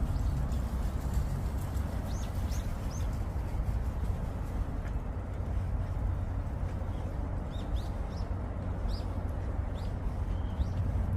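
Small birds giving short, sharp chirps: a few about two seconds in, then a quicker run in the second half. Under them is a steady low rumble.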